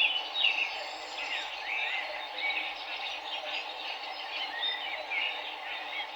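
Many small birds chirping together in short, overlapping calls and quick pitch glides, over the steady rush of river water.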